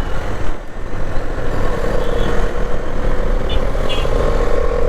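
Wind noise on the microphone and road noise while riding a Bajaj Dominar 400 motorcycle. A steady tone joins in from about two seconds in, with a few short high chirps near the end.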